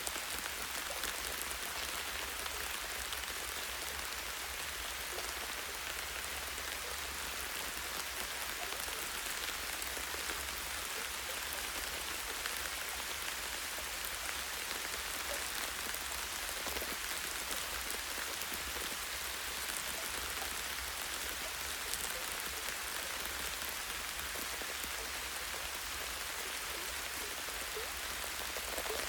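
Light rain falling steadily on a tree's branches and leaves: an even hiss with scattered drops ticking.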